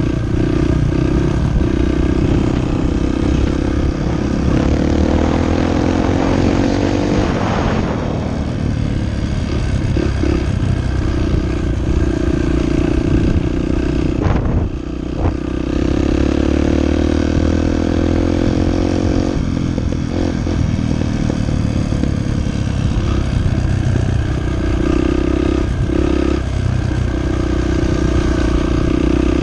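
Dirt bike engine running as the bike is ridden, its pitch climbing steadily twice, about five seconds in and again past the middle, each time dropping back afterwards.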